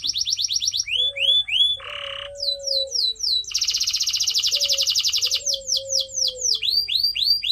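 Canary singing: fast rattling trills alternating with series of swooping whistled notes, and a short buzzy note about two seconds in.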